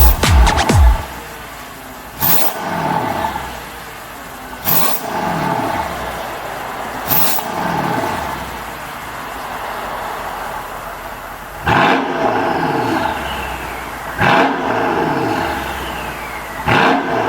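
Mercedes-AMG S63 coupe's twin-turbo V8 idling through an aftermarket valved exhaust and blipped six times, each rev rising sharply and falling back to idle.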